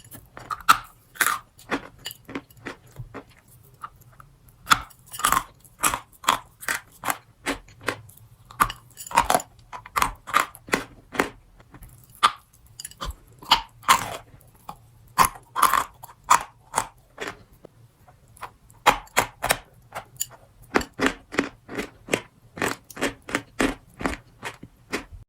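Close-miked crunching and chewing of a crunchy strawberry treat: quick runs of crisp crackles, with short pauses between bites.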